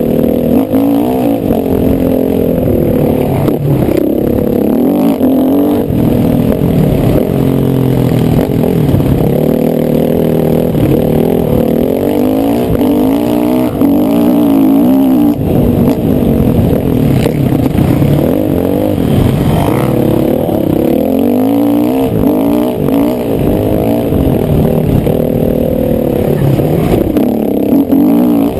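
Motocross bike engine revving hard and easing off again and again as it is ridden, its pitch rising and falling with the throttle, loud and close up.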